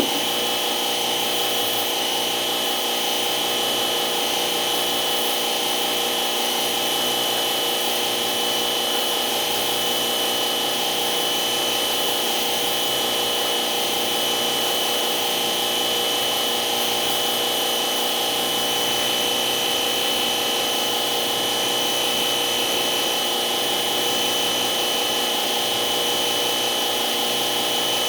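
A steady electric motor running without a break, with a constant high whine over a noisy hiss.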